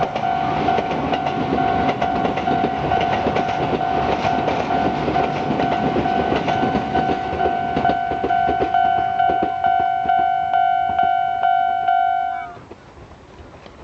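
Tobu 8000-series electric train passing, its wheels clacking rhythmically over rail joints. A steady ringing tone sounds alongside and stops suddenly near the end, where the noise falls away.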